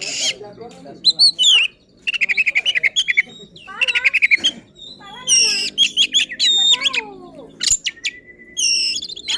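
Oriental magpie-robin (kacer) singing a rapid, varied song: sharp whistled notes, fast trills and sliding whistles, one after another. This is the excited 'gacor' singing of a worked-up bird running through its mimicked repertoire ('isian').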